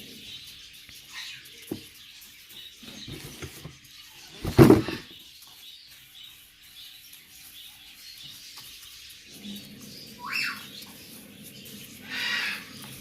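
Bird food being stirred and handled: soft rustles and scattered knocks, with one loud knock about four and a half seconds in. Two short bird chirps near the end, the first rising.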